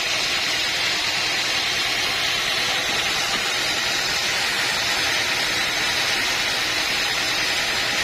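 Sawmill machinery running steadily: a strong, even hiss over a low hum, with no change in speed or load.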